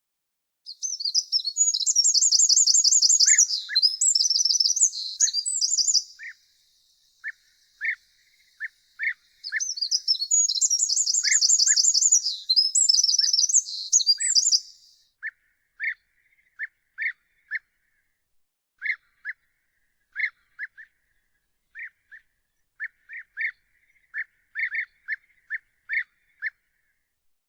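Songbirds: one sings two long, high, rapid trilling phrases of about five seconds each, the second starting around nine seconds in. Another bird gives short single notes, lower in pitch, repeated roughly once a second.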